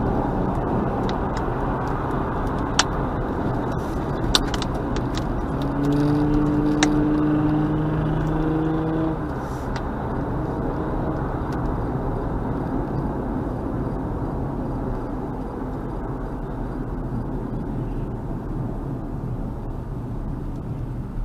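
A car driving, with steady road and engine noise. A pitched tone, typical of a car horn, is held for about three seconds near the middle, and a few sharp clicks come through.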